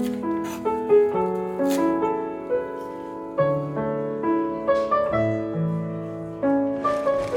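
Background piano music: gentle notes struck one or a few at a time, each ringing and fading.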